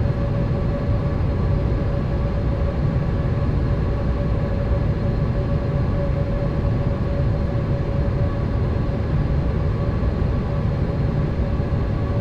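Steady cabin noise inside a Boeing 787 airliner in flight: a low rumble of engines and rushing air with a steady whine above it.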